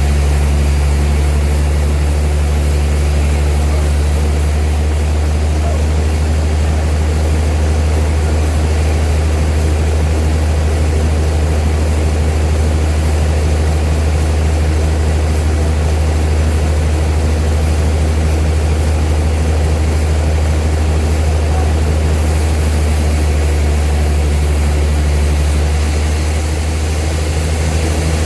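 Old sawmill machinery running with a steady low drone that barely changes, easing slightly near the end.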